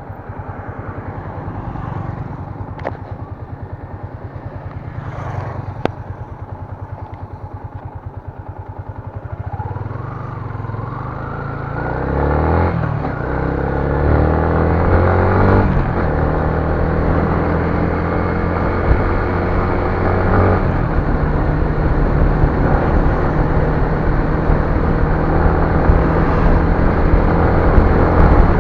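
Motor vehicle engine running. About ten seconds in it speeds up with a rising pitch, then settles into louder, steady running, with a couple of sharp clicks in the first six seconds.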